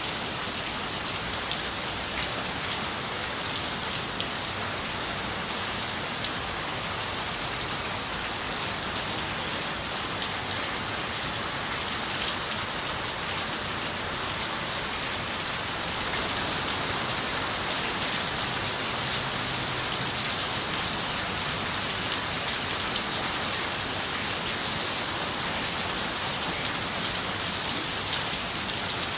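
Steady rain on a window: a dense, even hiss with scattered drops ticking against the glass, getting slightly louder a little over halfway through.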